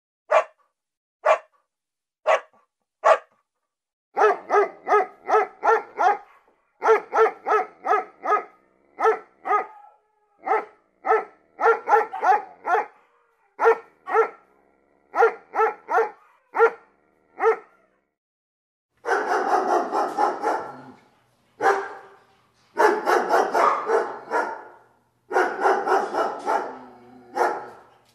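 A beagle puppy barking: short barks, some single and some in quick runs of four or five, with pauses between. In the last third the barking comes in longer, denser runs.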